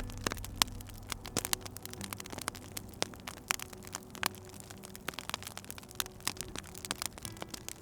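Wood fire crackling, with irregular sharp pops and snaps. A low steady hum runs underneath and shifts in pitch about two seconds in.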